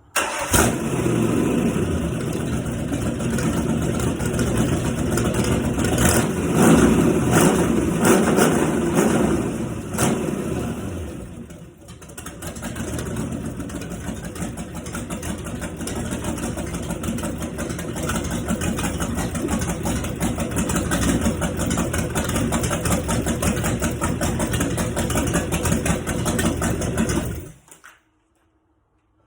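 5.0-litre engine's first startup after being built: it fires straight away and runs high and uneven with several blips of the throttle. About twelve seconds in it dips briefly, then settles to a steady idle, and it is shut off suddenly near the end.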